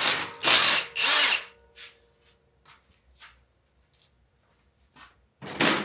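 Power tool driving a socket in short bursts, three in quick succession and one more near the end, loosening the oil pump and windage tray fasteners on the 8.1L engine's underside. A few faint metal clicks come between the bursts.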